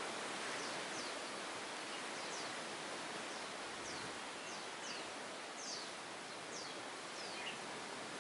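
Steady rushing outdoor noise with a bird repeating short, high, downward-sliding chirps, coming more often in the second half.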